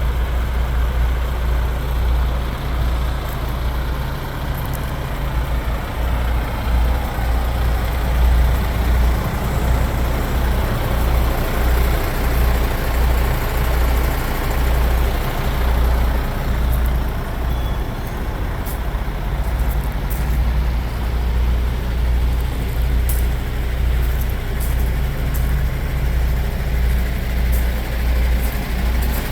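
MAN TGS 18.320 truck's diesel engine idling steadily: a deep, even rumble.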